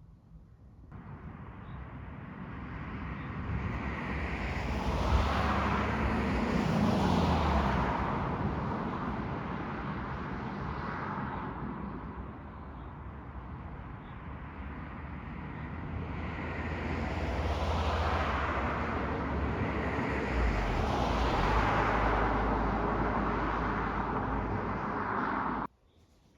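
Road traffic: vehicles passing by on a road, the tyre and engine noise swelling up and fading twice, then cutting off abruptly near the end.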